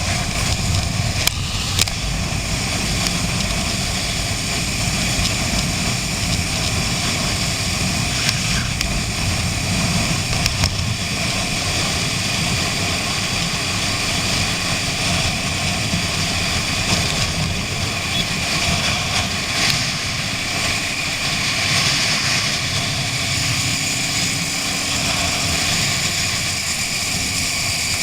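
Honda CB 500 parallel-twin engine running at steady road speed, under a continuous rush of wind noise.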